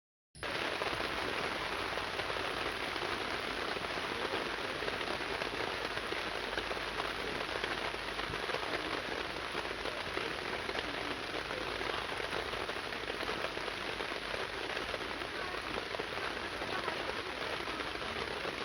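Heavy rain falling steadily, a dense patter of drops; it cuts in suddenly about half a second in.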